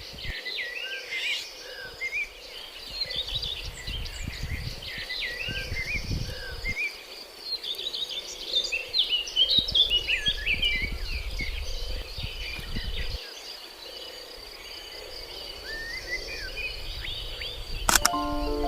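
Outdoor birdsong: many small birds chirping and twittering at once, over a steady high-pitched insect drone, with intermittent low rumbles.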